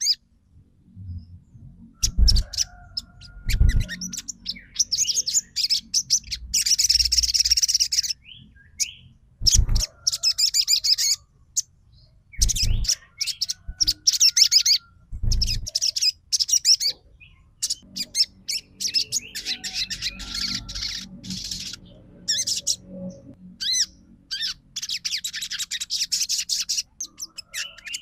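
Crimson sunbird (sogon) singing rapid, high chirping trills in repeated bursts with short pauses, the kind of song played as a lure to make caged sunbirds sing and answer. A few brief low thumps come in between.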